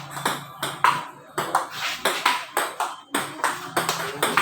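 Table tennis rally: the celluloid ball clicking off bats and table in quick alternation, about three hits a second.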